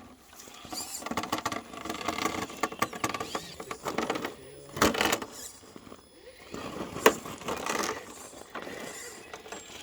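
Radio-controlled scale rock crawler trucks working over rock: small electric motors whirring unevenly as the tires and chassis scrabble and scrape on the stone, with a sharp knock about seven seconds in.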